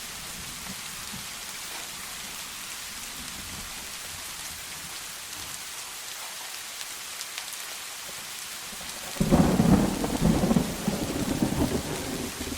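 Steady rain falling, an even hiss. About nine seconds in a loud thunderclap breaks in and rumbles for about three seconds, fading toward the end.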